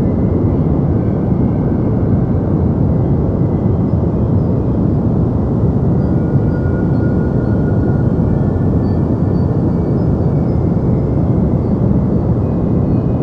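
Continuous deep white noise, a steady rushing hiss heavy in the low end, with faint high tones drifting in and out.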